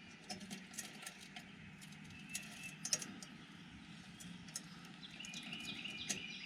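Faint scattered clicks and snaps of small twigs in a Solo Stove wood-burning camp stove as its fire is being started. A bird sings a run of short high notes near the end.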